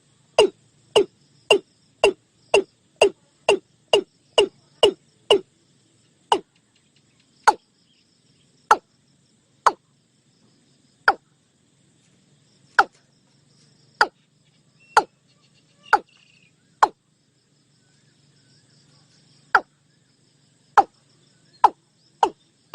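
Watercock calling: a series of short notes, each falling quickly in pitch, about three a second at first, then slowing to one every second or two with gaps.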